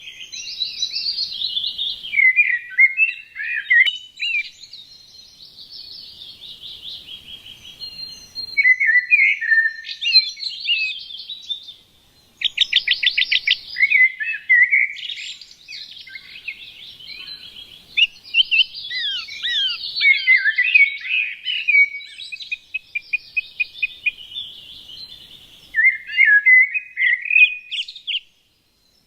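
Several small songbirds chirping and twittering at once, a busy overlapping chatter of short high calls that breaks off briefly twice.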